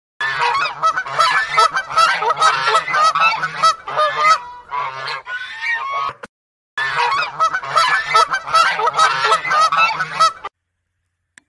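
A large flock of poultry calling over one another in a dense, loud chorus of honking calls. It plays in two stretches with a brief gap, then cuts off abruptly.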